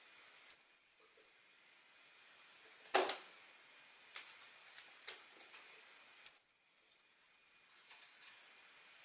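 Orange-headed thrush (anis merah) giving its thin, high 'ngecis' call twice, several seconds apart, each a falling whistle about a second long; this call is used to draw out males. A few faint clicks fall between the calls.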